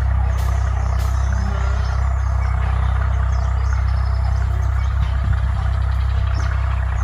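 A steady low mechanical hum, with two brief clicks in the first second.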